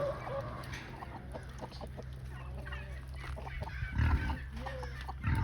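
Chickens clucking, many short calls overlapping, over a steady low hum, with a low thump about four seconds in.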